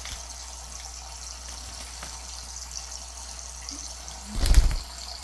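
Steady running water from a tap, trickling and splashing, with a single loud bump about four and a half seconds in.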